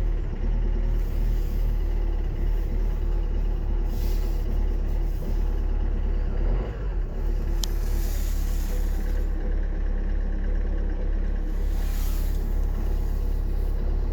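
Opel Vivaro 2.0 CDTI four-cylinder turbodiesel running steadily at idle, cold after an overnight stand at –23 °C. A single sharp tick sounds just before the midpoint.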